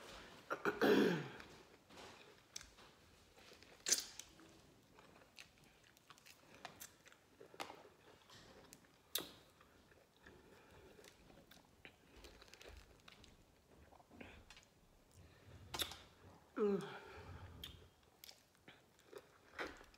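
Chewing and biting on fresh lemon wedges: scattered wet mouth clicks and smacks. A short vocal sound falling in pitch comes about a second in, and another about three seconds before the end.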